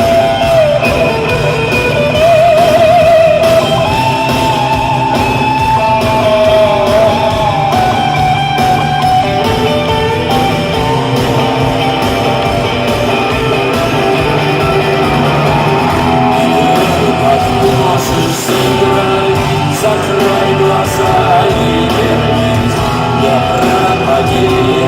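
A live rock band plays an instrumental break, a lead guitar carrying a wavering, sustained melody over the full band.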